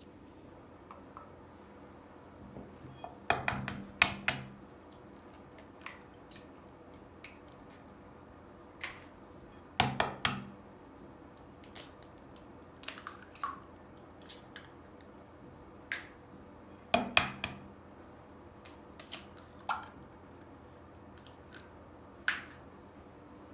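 Kitchen prep clatter: sharp clicks and clinks of utensils against dishware. They come in three louder clusters, about three seconds in, ten seconds in and seventeen seconds in, with scattered single taps between.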